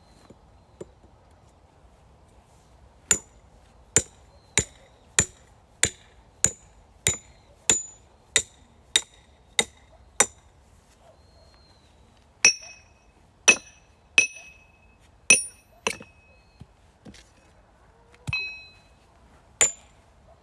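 Hammer blows on metal, each with a short bright ringing clink: a steady run of about a dozen strikes, close to two a second, then after a pause about five louder, more ringing strikes and a couple of stray ones near the end.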